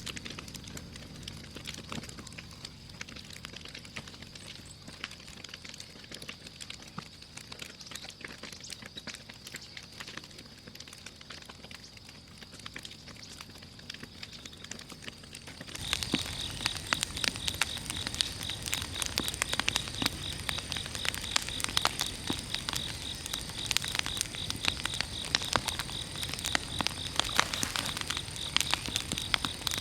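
Large wood bonfire crackling and popping with many small irregular snaps, over a steady high insect drone. About halfway through everything steps louder and a fast-pulsing insect trill joins in.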